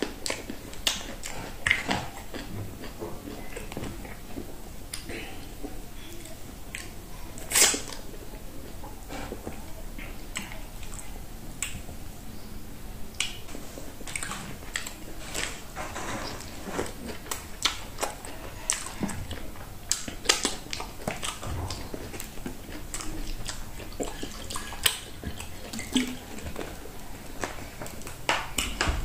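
Close-up mouth sounds of eating fufu and okra soup with meat by hand: wet chewing and lip smacks with many irregular clicks, the sharpest about eight seconds in.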